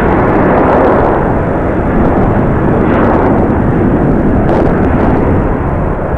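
Loud jet airliner noise mixed with strong wind buffeting the microphone: a steady rush that swells and eases several times.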